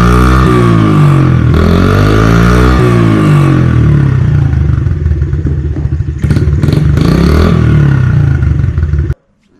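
A 2020 Honda CRF50's 49 cc single-cylinder four-stroke engine, freshly refilled with oil, revved twice with the pitch rising and falling, then running at a steadier speed. The sound cuts off suddenly near the end.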